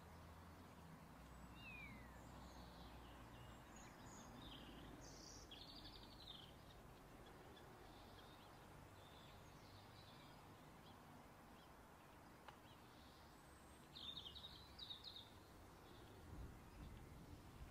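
Near silence: a low hiss with faint bird chirps here and there, a cluster about five seconds in and a louder one about fourteen seconds in.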